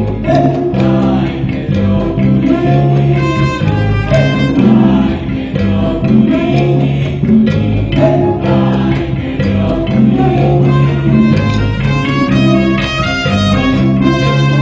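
Ensemble music with guitar, bass and violin playing a steady, continuous passage.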